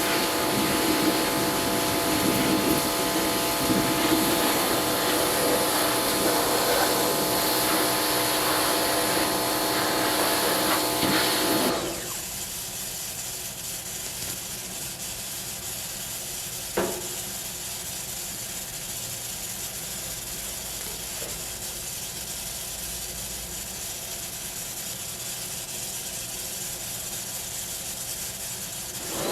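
A machine running steadily with a whine of several fixed pitches and a hiss, which stops abruptly about twelve seconds in. After that a quieter steady noise remains, with a single sharp click a few seconds later.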